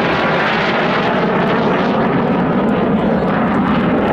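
Display aircraft flying past low, its engine noise a loud, steady rush.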